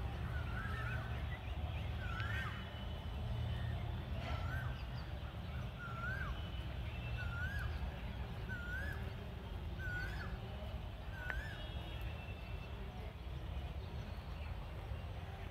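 A bird calling: one short, rising-then-falling whistled note repeated about once a second, a dozen or so times, stopping about eleven seconds in. A steady low rumble of wind or distant traffic runs underneath.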